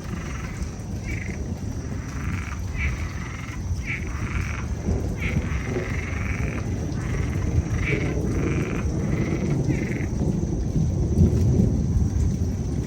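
A chorus of frogs calling in repeated bursts, which stops about ten seconds in, over a low rumble of thunder and rain that grows louder near the end.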